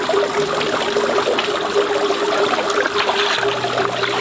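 Running water trickling steadily, with a steady low hum underneath.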